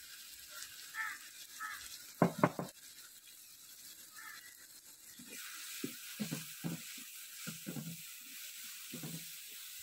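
Shallots, chillies and ginger-garlic paste frying faintly in a metal pan, with two sharp knocks a little after two seconds in. From about halfway through a ladle stirs the mix, knocking and scraping against the pan several times a second over a louder sizzle.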